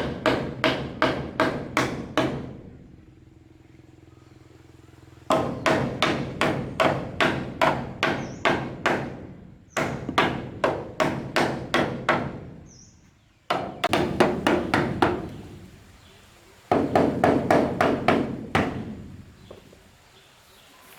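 Hammer blows on wood in quick, even runs of about three strikes a second, each run lasting a few seconds with short pauses between.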